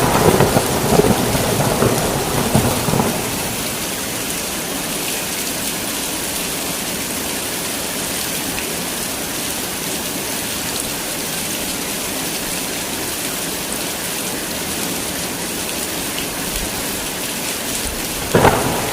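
Heavy rain falling steadily with an even hiss, with thunder rumbling through the first three seconds and another thunderclap starting near the end.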